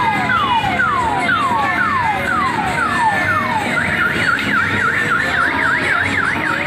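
Electronic siren sound effect from a kiddie ride's loudspeaker: repeated falling whoops, about two a second, then, near the middle, a fast up-and-down warble.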